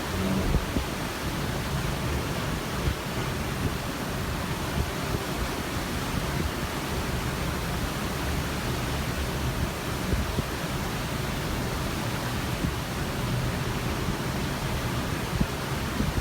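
Steady rush of wind and ocean water heard from a cruise ship's balcony, with wind buffeting the microphone now and then.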